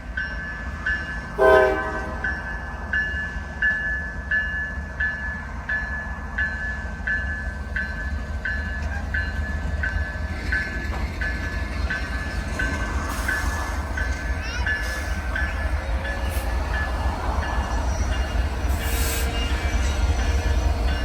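Grade-crossing warning bell dinging steadily, a little over once a second, over a constant low rumble. A short horn blast sounds about a second and a half in.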